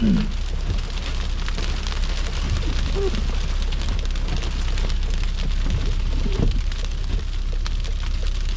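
A car driving through a snowstorm: a steady low rumble of engine and tyres on a slushy road, under a constant hiss with fine ticks of snow striking the car.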